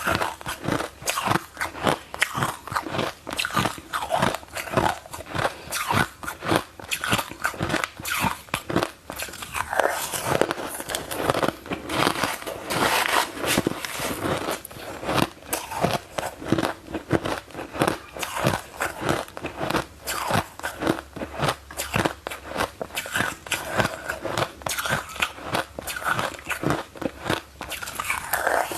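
Ice being bitten and chewed close to the microphone: a continuous run of sharp, irregular crunches and cracks, several a second.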